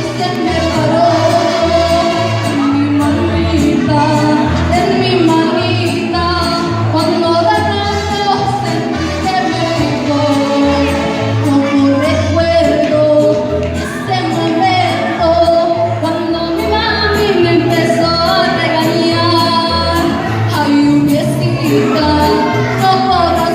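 A woman singing a song over instrumental backing, with a steady bass line and a regular percussion beat.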